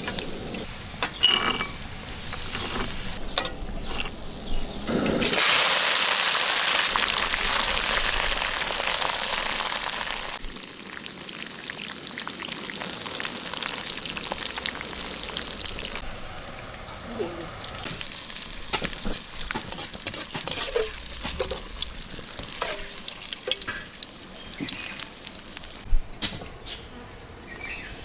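Food frying in hot oil with a steady sizzle that is loudest from about five to ten seconds in, then settles lower, with scattered clinks of a utensil against the pan.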